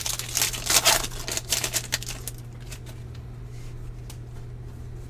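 Plastic-foil wrapper of a baseball card pack crinkling and tearing open for about two seconds, then a few light ticks of cards being handled, over a low steady hum.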